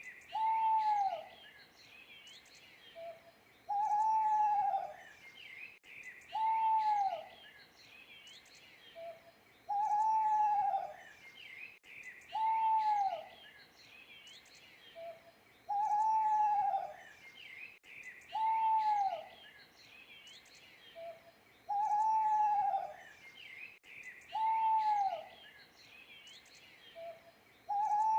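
Owl hooting: drawn-out hoots about a second long that rise and fall in pitch, coming about every three seconds, with a short soft note between some of them. Small birds chirp steadily in the background, and the same sequence repeats every six seconds.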